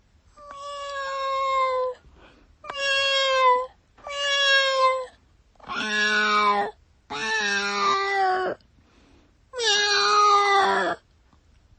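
A cat meowing six times in a row. Each meow lasts about a second and holds a fairly steady pitch, with brief pauses between them.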